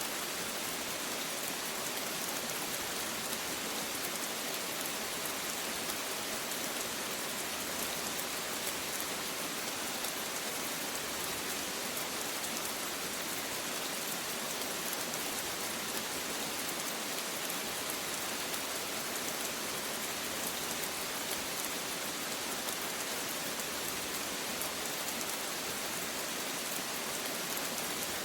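Steady rain falling on a surface, an even hiss with fine drop patter.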